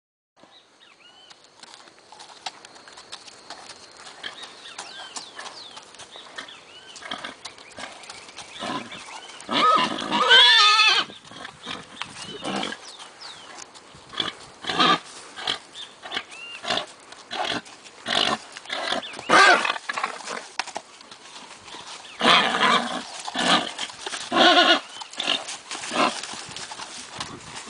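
A horse whinnying loudly once, about ten seconds in, followed by a run of short, sharp sounds through the second half.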